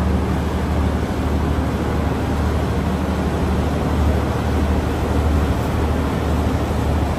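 Boat engine running with a steady low drone, under a constant rush of wind and water noise.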